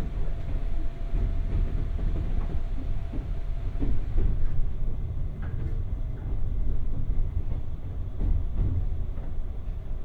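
Running sound inside a 201 series electric train's motor car: a low rumble of wheels and bogies on the rails with scattered irregular clicks. A faint steady whine in the first few seconds fades out about four seconds in.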